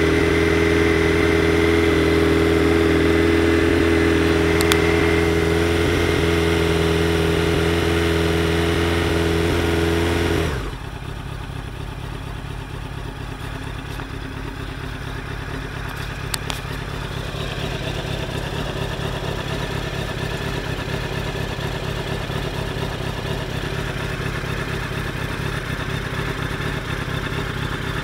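1999 Honda CBR900RR's inline-four engine idling with a steady, even note; about ten seconds in the sound drops suddenly to a quieter, rougher idle that slowly grows a little louder.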